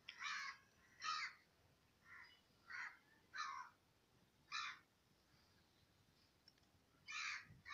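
Faint bird calls: about seven short, rough calls in an uneven series, with a longer gap before the last one near the end.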